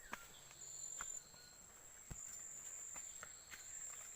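Forest insects chirring in a steady, high-pitched, faint drone, with a few scattered clicks and snaps like footsteps on the leafy trail.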